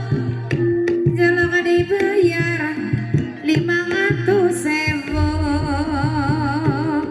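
Live Banyumasan ebeg accompaniment: a singer's wavering melody over hand-drum strokes and pitched gamelan-style instruments.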